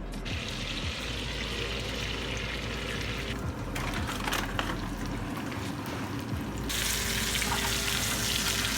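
Breaded fish frying in a pan of butter and oil, with a steady sizzle that eases off for a few seconds in the middle and then comes back louder.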